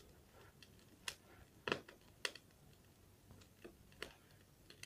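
Campfire crackling: wood popping in irregular, sharp clicks, a few louder pops among fainter ticks.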